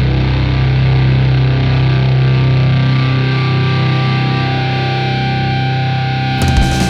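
A rock band's sustained, distorted electric guitar chord ringing out as a steady drone, with a few high notes held over it. Near the end, drums and the full band crash in as the next song begins.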